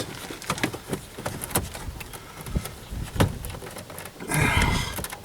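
Plastic clicks and knocks of a car's headlight switch and its dash trim being handled and worked back into the dashboard, with a louder, longer scraping-like noise about four seconds in.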